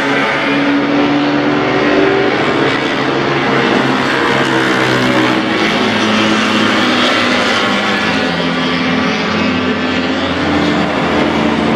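Several vintage racing motorcycles running together on a circuit, their engines at different pitches rising and falling as they rev and shift.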